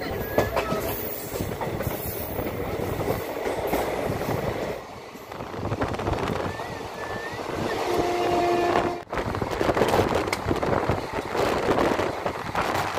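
Express passenger train running at speed, the rumble of the coach and its wheels on the track heard through the open coach doorway, with a short steady horn blast about eight seconds in.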